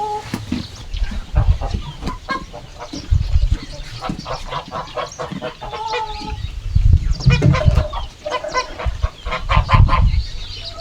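Domestic chickens clucking busily in a flock, with a few short held calls mixed in. Loud low thumps break in several times, the strongest in the second half.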